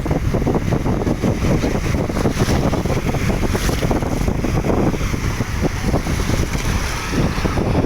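Loud, steady wind noise buffeting the microphone, with no pauses.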